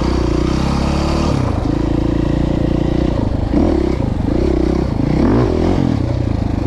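Dirt bike engine running close by, held steady for a while and then rising and falling in pitch as the throttle is opened and closed.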